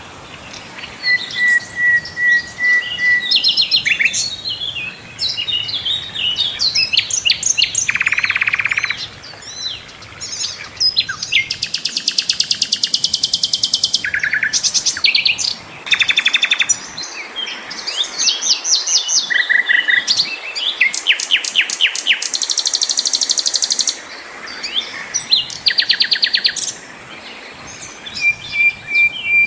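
Sikatan londo singing a long, varied song: rapid high trills, quick runs of repeated notes and short steady whistled notes, with several long buzzy trills and brief pauses between phrases.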